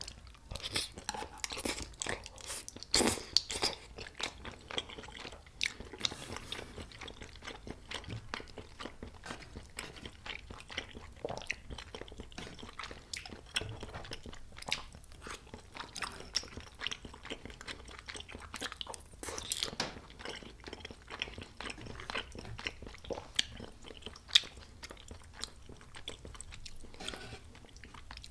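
Close-miked chewing and biting of spicy tteokbokki rice cakes with melted cheese, with wet, sticky mouth sounds and many small clicks and smacks, a few of them louder.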